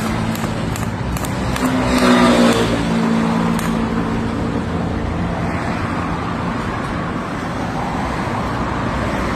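A motor running steadily, with fast regular ticks through the first second and a falling sweep in pitch about two seconds in.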